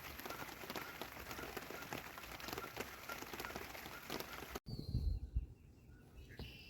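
Rain pattering steadily on a surface, a dense hiss of fine drop ticks. About two-thirds of the way through it cuts off abruptly to low rumbling, like wind on the microphone, with a short high chirp.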